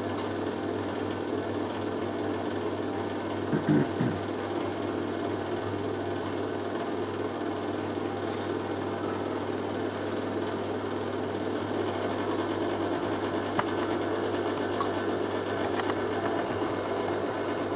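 Hoover A3060 washing machine's drain pump running with a steady hum as the machine drains after the main wash, with a couple of brief knocks about four seconds in.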